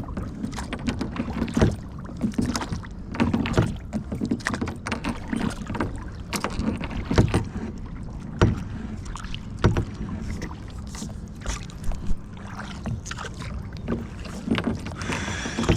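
Kayak paddling: the paddle dips and splashes in the water with irregular knocks, about one a second, over steady water and wind rush.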